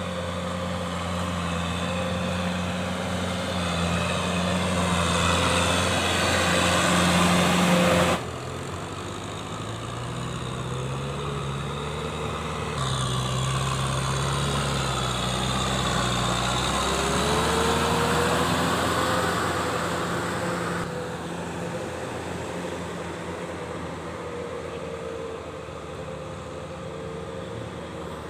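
Kubota M6040SU tractor's diesel engine running steadily, its pitch shifting slowly around the middle, with abrupt changes in sound about 8 and 13 seconds in.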